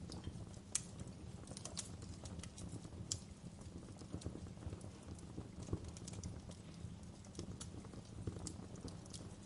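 Wood fire crackling in a fireplace, with irregular sharp pops and snaps, a few louder ones standing out, over a steady low rumble and an even hiss of rain.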